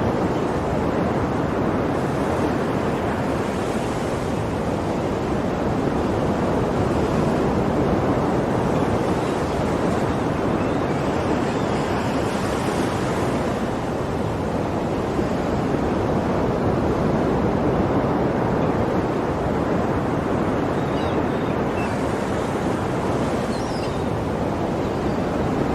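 Ocean waves breaking and washing on a shore in a continuous surf, gently swelling and ebbing every few seconds.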